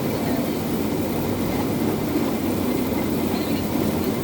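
Rail bike rolling along the track: a steady rumble of its wheels on the rails.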